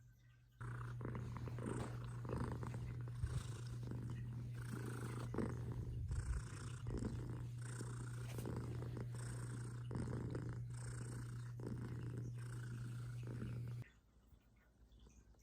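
A house cat purring close to the microphone: a steady low rumble that swells and eases with each breath, a little more than once a second. It starts abruptly about half a second in and cuts off near the end.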